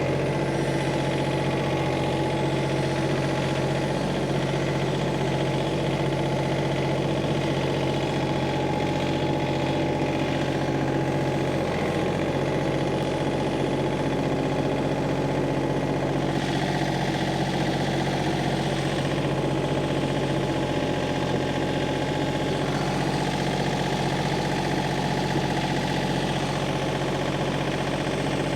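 Tractor engine running steadily while a log is moved, its speed shifting slightly about twelve seconds in.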